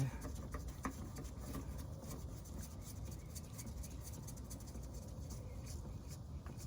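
Faint scratching and light scattered clicks of a spin-on oil filter being threaded onto its mount by hand, over a low steady background hum.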